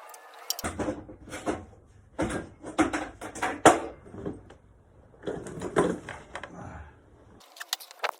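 Section of the 1987 Toyota Supra's exhaust pipe clanking and scraping against the underbody as it is worked loose and pulled up, in three bursts of rattling metal knocks with a few sharp clicks near the end.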